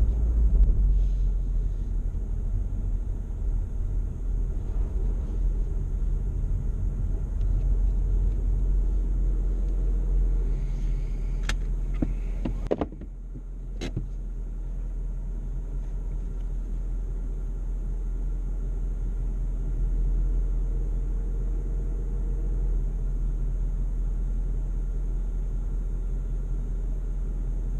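Low, steady vehicle rumble from a slowly moving vehicle. Halfway through, a sharp click comes just before the rumble drops in level, and another click follows about a second later.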